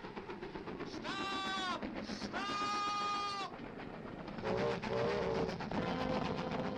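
Steam locomotive whistle blown twice in long, steady blasts, each bending in pitch as it starts and stops, over a continuous rumbling background; lower wavering tones follow near the end.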